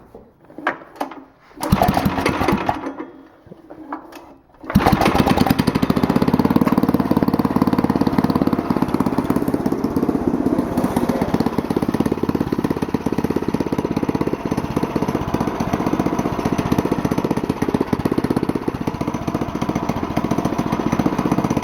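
Stock 136 cc, 4-horsepower go-kart engine being started: a short first burst about two seconds in, then it catches about five seconds in and runs steadily.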